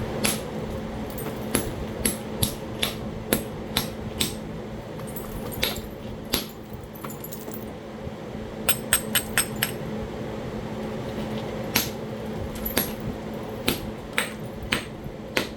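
Flintknapping percussion on a Talahata quartzite biface: about twenty sharp, short strikes at uneven spacing, some in quick runs, against a faint steady hum. The blows are working at a stubborn, poorly attached cortex-like layer that will not flake through.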